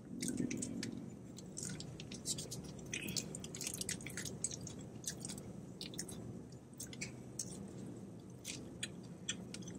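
A person chewing a crunchy hard-shell taco, with many small crisp crunches scattered throughout.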